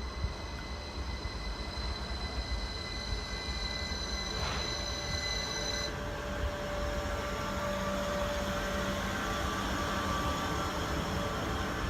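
Class 333 electric multiple unit pulling into a terminus platform. A high steady whine cuts off about six seconds in, after one click a little earlier. Lower squealing tones follow over the rumble as the train slows.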